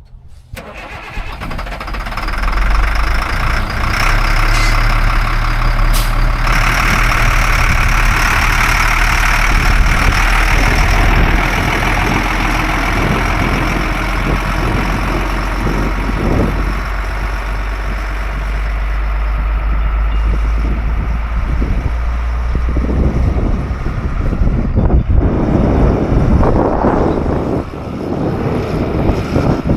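1997 Freightliner FL70 dump truck's diesel engine starting up and settling into a steady idle. Near the end the even hum gives way to a rougher, noisier sound.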